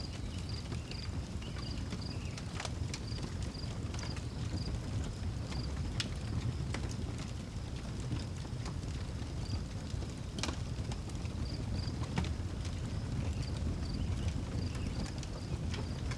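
Outdoor wood fire burning with a low steady rumble and irregular sharp crackles and pops. Crickets chirp in short, evenly repeated runs over it.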